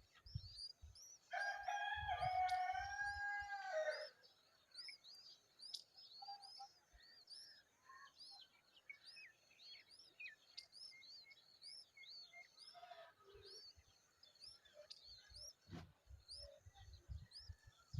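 A small bird chirps over and over, a short high call about twice a second. A rooster crows once, loudly, about a second and a half in.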